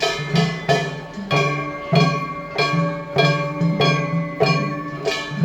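Festival hayashi music: hand-held metal gongs (kane) struck in a steady, loud rhythm about twice a second, each strike ringing on, with drums underneath.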